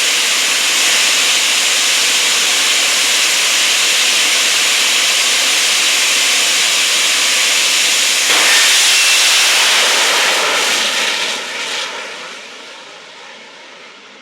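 Jet dragster's turbine engine running with a loud, steady, hissing roar. It surges louder about eight seconds in, then fades away over the last few seconds.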